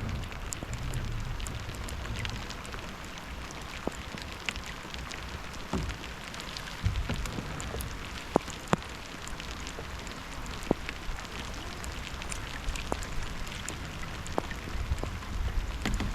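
Steady rain pattering, with scattered sharp taps of single drops. A few louder taps fall around the middle.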